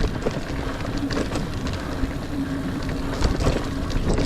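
Niner Air 9 RDO 29er mountain bike rolling along dirt singletrack: tyres crunching over the ground, with scattered clicks and rattles from the bike over bumps and a low hum that comes and goes.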